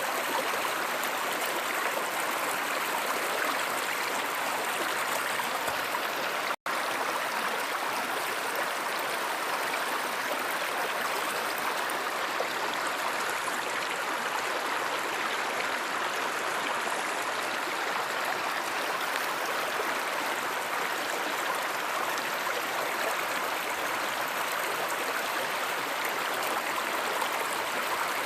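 Steady rushing and gurgling of a flowing stream. The sound cuts out for an instant about six and a half seconds in.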